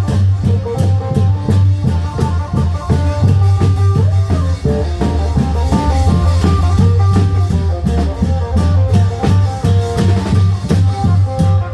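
Isan klong yao long-drum band playing live: a fast, steady drum beat under a plucked-string melody in the style of an amplified phin, over a constant deep bass.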